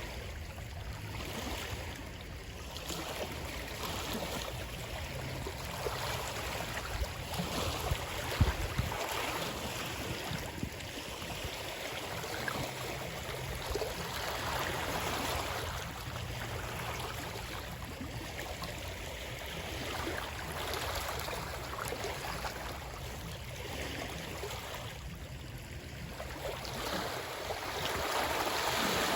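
Running water, a steady rushing wash that swells and eases every few seconds.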